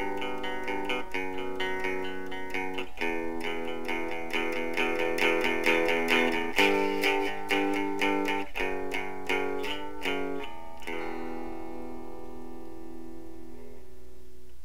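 Guitar music: picked notes and sustained chords that change every second or two, with a last chord left ringing for the final few seconds.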